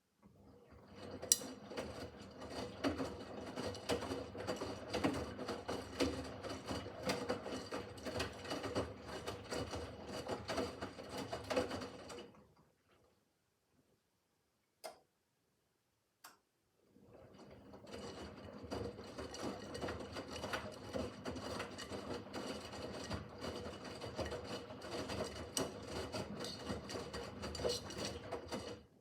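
Miele W5801 WPS washing machine drum turning the laundry during the wash: it runs for about twelve seconds, stops for about four seconds with a couple of light clicks, then turns again, the stop-and-reverse rhythm of a front-loader's wash phase.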